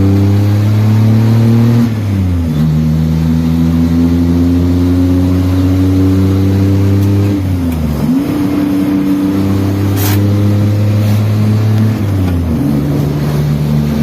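Maruti Suzuki Omni's three-cylinder engine running loud through a homemade exhaust cutout valve held open. The engine note holds steady, with the revs dropping and picking up again about two, eight and twelve and a half seconds in.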